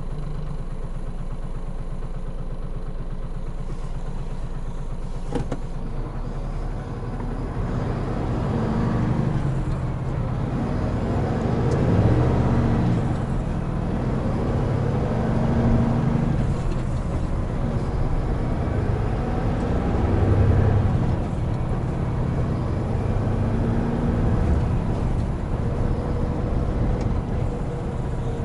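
Hino Profia heavy truck's diesel engine running at idle, then pulling away from about seven seconds in. The engine note swells and eases several times as it picks up speed, with a single click about five seconds in.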